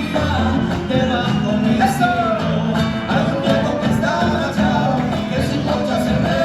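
A gato, a lively Argentine folk song, sung by a man with strummed guitar accompaniment.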